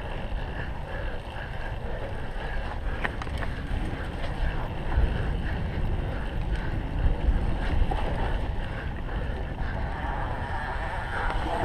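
Wind buffeting the microphone of a cyclocross bike ridden at race pace, with steady tyre and drivetrain rumble and a few sharp rattles from the bike over rough ground.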